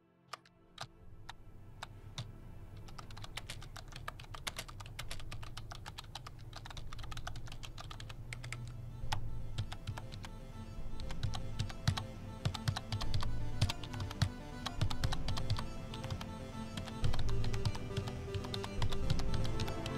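Fast typing on a MacBook Air laptop keyboard: a few separate keystrokes at first, then a quick run of key clicks. Background music grows louder beneath it.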